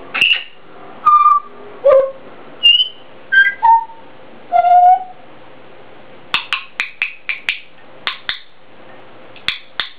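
African grey parrot whistling a string of separate notes at different pitches, some gliding up or down, then a quick run of short sharp chirps and clicks in the second half.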